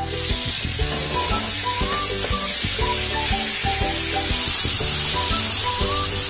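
Coconut masala paste sizzling in hot oil with garlic, starting suddenly as the paste hits the oil and going on as it is stirred with a metal spoon, growing louder about two-thirds of the way through. Background music plays underneath.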